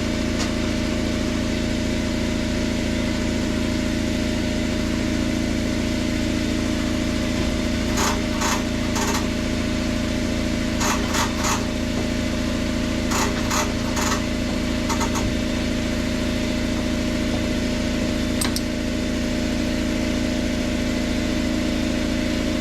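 An engine idles steadily with a low, even hum. Several short clusters of sharp metallic clicks sound partway through, some of them in quick threes.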